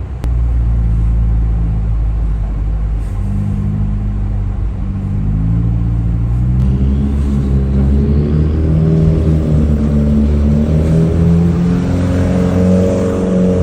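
Car engine running under load, its pitch climbing from about four to eight seconds in and then rising and falling with the throttle.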